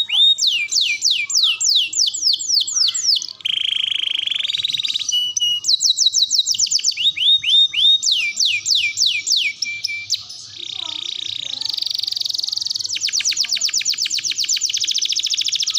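Domestic canary singing a long continuous song: quick runs of high falling whistles alternating with fast trills and buzzy rolls, each phrase lasting one to three seconds before switching to the next.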